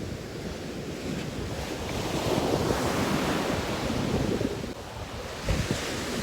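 Sea waves washing onto a beach, one surge swelling about two seconds in and easing off, with wind rumbling on the microphone and a brief buffet near the end.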